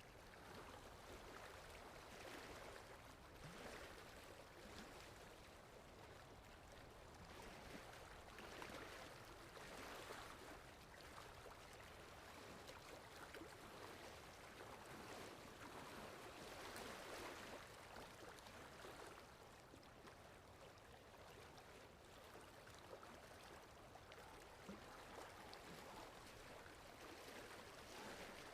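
Faint sea waves washing in, a steady rushing hiss that swells and fades every several seconds.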